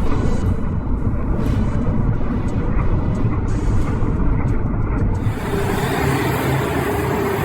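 A heavy vehicle's engine running with a loud, rough low rumble. About five seconds in, a steady humming tone joins it.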